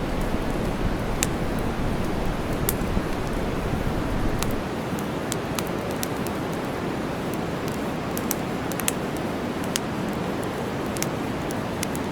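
Steady white noise hiss mixed with the sharp pops and crackles of a campfire, scattered irregularly throughout. A bit after four seconds in, the deep rumble beneath the hiss drops away and the sound becomes slightly quieter.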